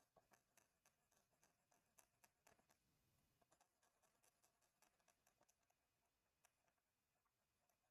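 Near silence with faint, irregular clicks and ticks, several a second, from a drawing tool at work while an area of the drawing is filled in.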